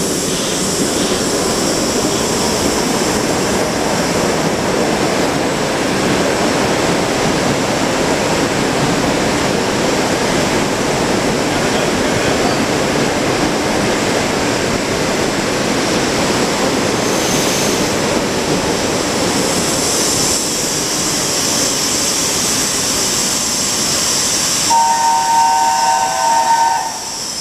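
ED4M electric multiple unit rolling into the platform and standing, a steady rumble with hiss. Near the end, a VL10 electric locomotive sounds its horn, a chord of several steady tones lasting about two seconds.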